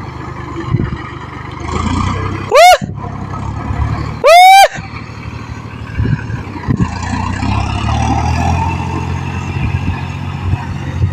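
A vehicle horn sounds twice, a short blast and then a longer one, very loud, over a running engine's steady low rumble.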